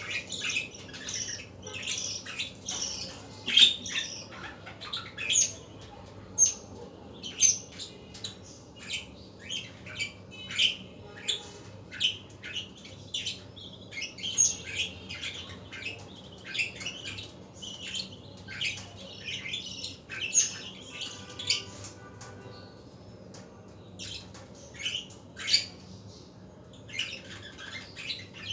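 Budgerigars chattering: short, sharp squawks and chirps, many in quick irregular succession.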